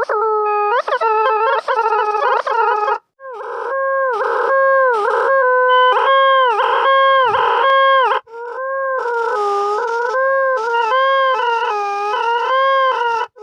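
Synthesized tones from the Desmos graphing calculator, the pitch following the plotted graph. For the first three seconds the tone makes sharp, quick pitch swoops. After a short break come repeated notes that dip and rise back, and from about eight seconds on the tone wavers up and down.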